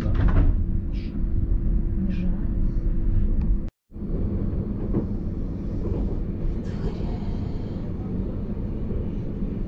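Inside a passenger train carriage as it pulls out and rolls along the tracks: a steady low rumble with a faint hum, cut off for an instant by an edit about a third of the way in, then the rumble resumes.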